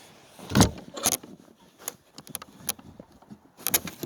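A series of sharp knocks and clatters, the loudest about half a second in, lighter ones through the middle and a quick cluster near the end.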